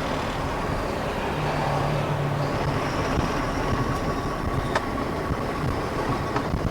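BharatBenz goods truck driving: steady engine and road rumble, with a brief low drone about a second and a half in and a faint click near the end.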